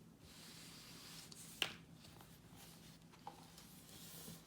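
Quiet rustling of a picture book being handled and its pages turned, with one sharp tap about a second and a half in and a softer one near the end.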